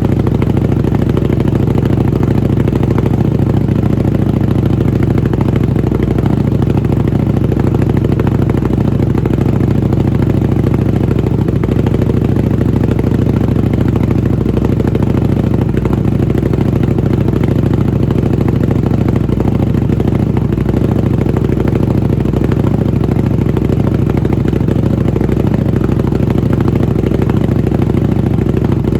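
Buell 1125R's 1125 cc V-twin idling steadily through a Jardine RT-5 aftermarket exhaust as the engine warms up.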